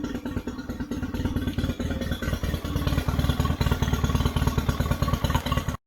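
Nissan Marine outboard motor running steadily, a fast even pulse with a clattery edge. It stops abruptly near the end.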